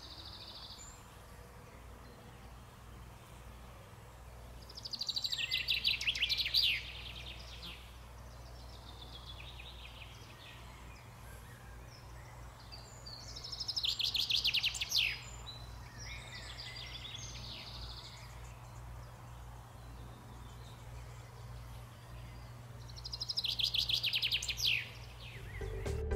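A songbird singing the same quick, rapid run of notes three times, about every nine seconds, each phrase about two seconds long and ending in a falling sweep, with fainter birdsong between the phrases over a low steady rumble of outdoor noise.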